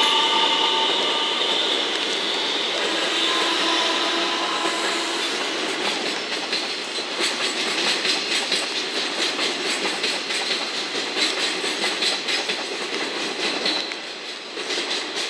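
A JR West 227 series electric train passing close by with steady high tones, then a long freight train of Chiki flat wagons loaded with steel rails rolling past, its wheels clicking rapidly over the rail joints. The clicking fades near the end as the last wagon goes by.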